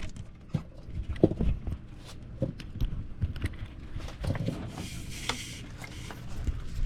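Handling noises as electrical wire and fish tape are worked by hand: scattered light knocks, rubs and scrapes, with a short hissing rasp about five seconds in.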